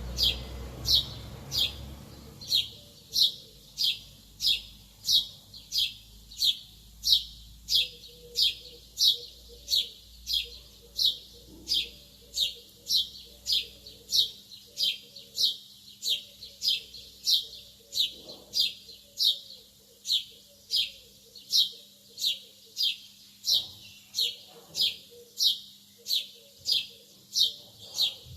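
Lovebird calling in a steady series of short, sharp chirps, a little under two a second, each sliding down in pitch.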